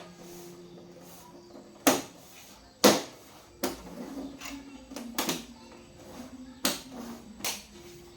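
Irregular sharp clicks and knocks of hard objects, about six over several seconds, over a faint low hum.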